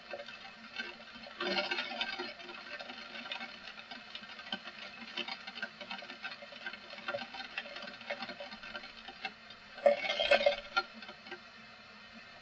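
Rain pattering and dripping, many irregular drops tapping, with two louder bursts of noise, one near the start and one about ten seconds in.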